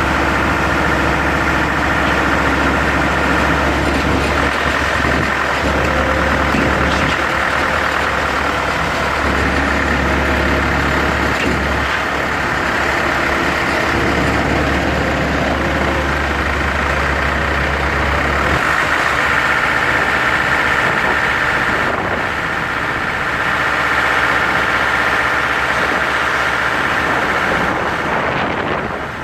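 An engine running steadily, with a deep hum that stops about two-thirds of the way through while steady mechanical noise carries on.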